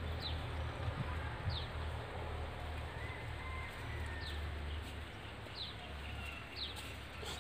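Small birds calling in the open: a short, high chirp that falls in pitch, repeated about five times at uneven intervals of a second or so, over a steady low rumble.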